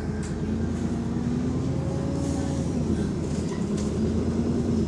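Bus diesel engine running under load as the bus pulls along, a steady drone that grows a little louder at the start. The bus has a small exhaust leak.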